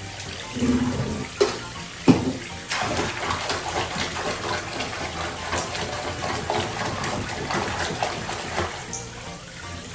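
Water running and splashing in a bathtub while a cat is washed. A couple of sharp knocks come about one and a half and two seconds in, before the splashing takes over.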